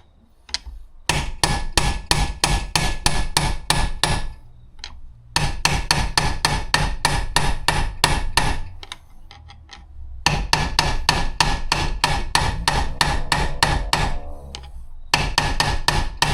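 Rapid hammer blows on the metal of a car differential, about four to five strikes a second in four runs with short pauses between them. The blows are denting the part being struck.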